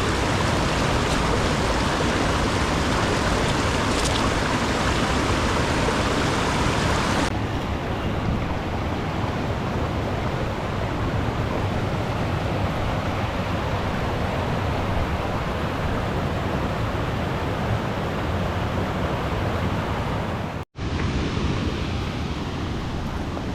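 Steady rushing noise with no distinct events, changing in tone abruptly about seven seconds in and breaking off for an instant near the end.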